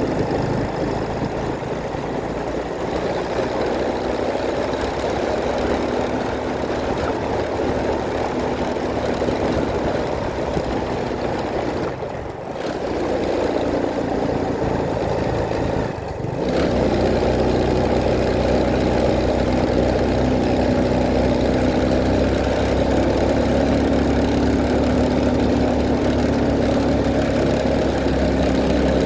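Vehicle engine running steadily while travelling on the road. There are two short dips about twelve and sixteen seconds in, after which the engine drone is steadier and stronger.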